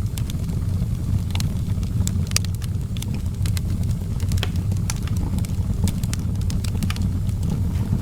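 Outdoor wood fire burning, with frequent irregular sharp crackles and pops over a steady low rumble.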